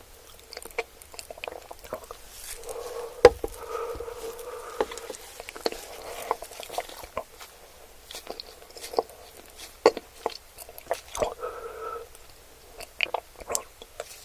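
Close-miked chewing and biting: wet mouth sounds with many irregular sharp crunching clicks, the loudest a little over three seconds in.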